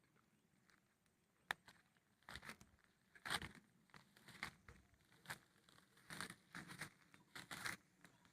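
Faint crackling rustles, like dry leaves or undergrowth being disturbed, in short bursts about once a second.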